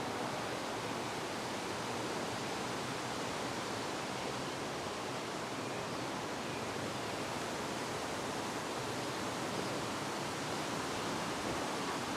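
Wind blowing steadily, an even rushing noise with no breaks or gusts.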